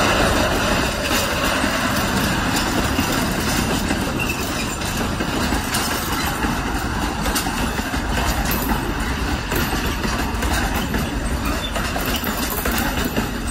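A freight train's wagons rolling past close by: tank wagons, then open box wagons, with a steady rumble of wheels on rail and clickety-clack from the rail joints, the clacks growing sharper and more frequent in the second half.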